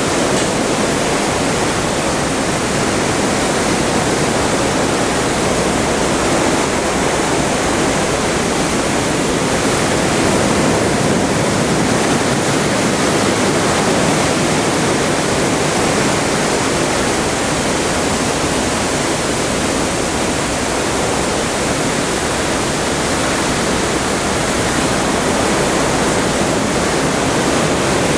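Atlantic sea water rushing steadily past a cruise ship under way: a loud, constant hiss with no separate wave crashes.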